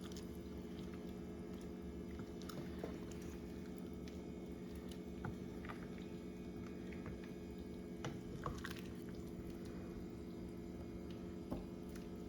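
Spoon stirring a pot of chicken noodle soup: soft wet squishing of the broth, noodles and chicken, with scattered light clicks of the spoon against the pot, over a steady low hum.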